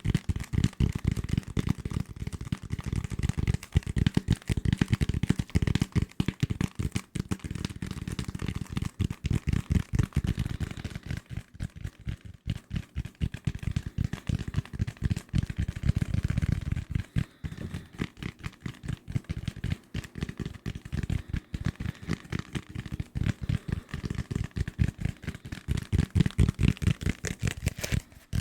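Fast, hard tapping with fingers on assorted desk objects, many sharp taps a second in an unbroken flurry, with a full low knock to each tap.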